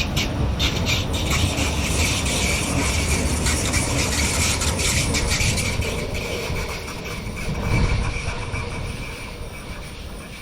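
A train passing close by: wheels rumbling on the rails with clicks over the rail joints and a thin high squeal, fading away over the last few seconds.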